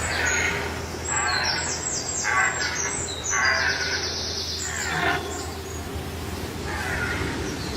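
Red deer stags roaring in the rut, the calls repeating every second or so. Birds chirp high above them.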